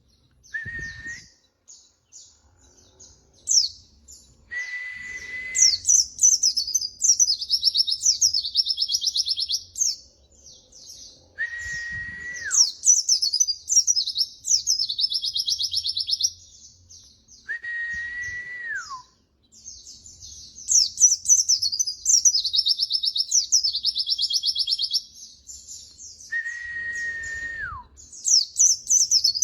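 White-eye (pleci) singing in fast, high, twittering phrases with short pauses. Five times there is a long level whistle note, lower than the twitter, that drops in pitch at its end.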